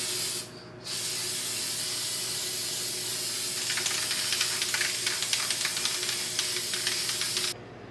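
Aerosol spray-paint can spraying: a short burst, then one long steady hiss of about seven seconds that turns crackly and spitting in its second half and cuts off abruptly.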